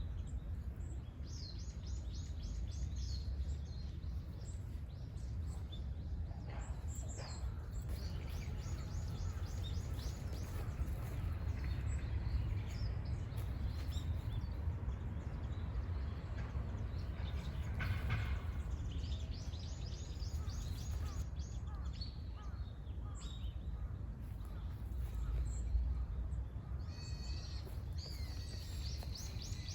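Wild birds singing outdoors: high, rapid trilled phrases several seconds long, repeated about four times, over a steady low rumble.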